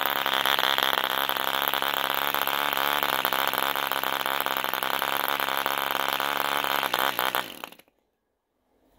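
Movo D2 model diesel engine running steadily with a 10x5 propeller, a high buzzing run. About seven seconds in it turns uneven and stops, leaving silence.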